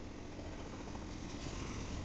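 Double-stack intermodal freight train rolling past: a steady noise of steel wheels on the rails, with no distinct clicks or horn.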